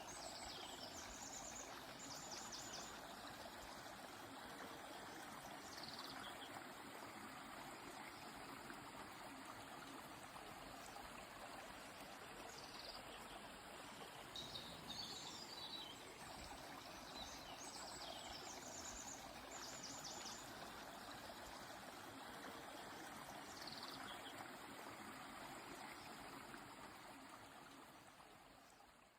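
A river flowing steadily, with small birds now and then giving short, high chirps and trills; it fades out near the end.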